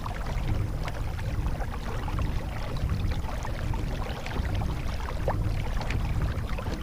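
Kayak moving slowly through the water while trolling: small irregular splashes and drips of water along the hull, over a steady low rumble.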